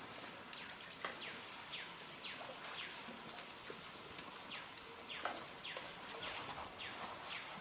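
A bird repeating a short falling chirp about twice a second over a steady outdoor hiss, with a couple of faint knocks.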